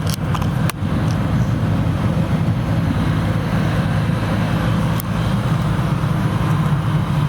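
A car on the move: a steady low engine and road drone, with a couple of sharp clicks in the first second.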